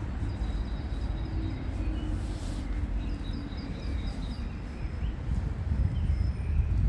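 Small birds chirping faintly, with a quick run of short high notes about halfway through, over a steady low outdoor rumble.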